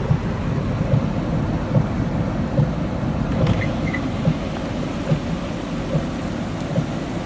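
Heavy rain and wind of Hurricane Matthew, a steady rumble with a soft thump repeating a little more than once a second.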